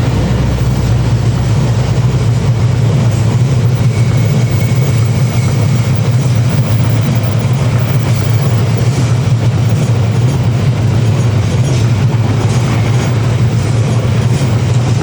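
A train running by on the rails: a steady, loud low drone with the rumble and rattle of wheels on the track.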